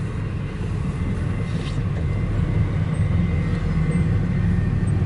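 CSX Q032-07 intermodal freight train running past with a steady low rumble that slowly grows louder.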